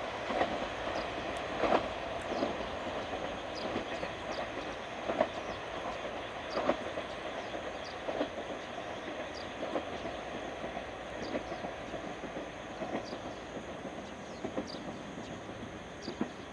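Two-car JNR KiHa 47 diesel railcar train running away along the track, its wheels clacking over the rail joints in an uneven beat of single clicks every second or so, fading slowly as it recedes.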